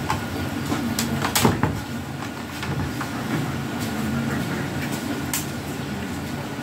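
A few sharp clicks and taps, as of small plastic parts being handled, over a steady low hum.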